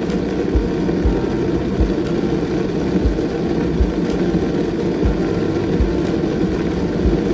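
Steady low rumble of a car being driven, heard from inside the cabin, with short low thumps every second or so.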